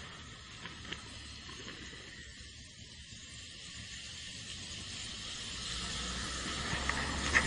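Steady hiss of wind and road noise from a moving vehicle, with a low rumble growing louder toward the end.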